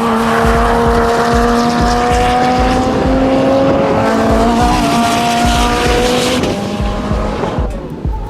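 Supercar engine running at high, steady revs on track, its note sinking slowly over several seconds, then dying away near the end.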